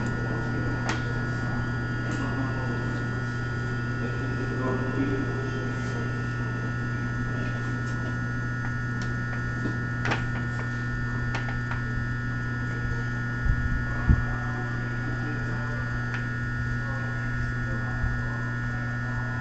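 Steady electrical hum with a thin high whine from the onboard equipment of an E217 series commuter train standing in a station, with no wheel-on-rail rhythm. A few faint clicks are heard, and two short thumps come a little after the middle.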